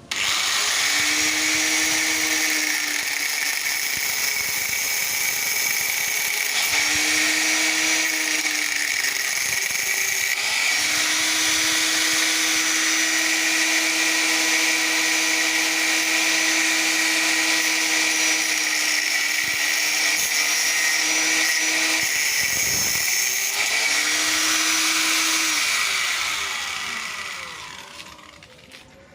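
Hand-held electric power tool working on the steel casing of a scrap refrigerator compressor. Its motor tone sags and recovers several times as it bites into the metal, and it winds down near the end.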